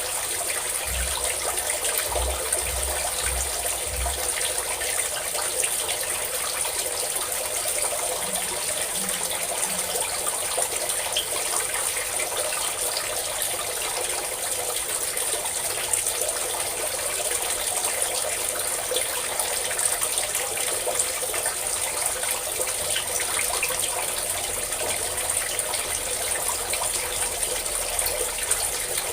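Steady pouring of running water, a continuous even splashing without pause.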